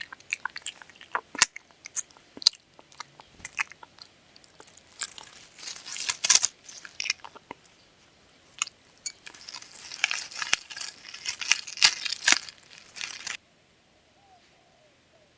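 A dog chewing and crunching crunchy food, a quick irregular run of sharp crunches and bites that stops suddenly near the end.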